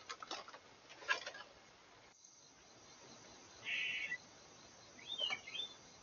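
Bird calls: a short harsh buzzy call near the middle, then a quick sweeping call about a second later. A few sharp clicks and knocks come in the first second or so.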